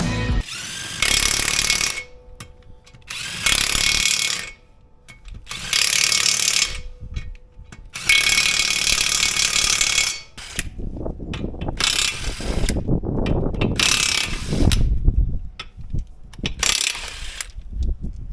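Hand ratchet clicking in repeated bursts of about a second each, with short pauses between strokes.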